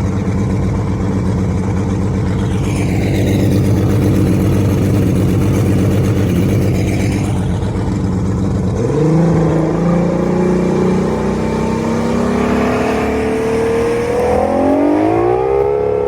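135 Mariner outboard motor running steadily, then speeding up from about nine seconds in, its pitch climbing through the last few seconds.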